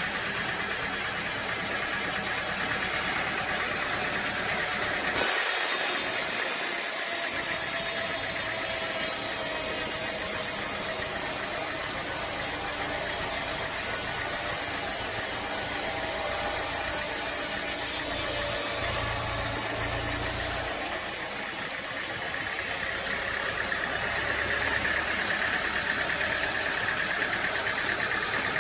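Engine-driven machinery running steadily, with an abrupt change in the sound about five seconds in and again about twenty-one seconds in.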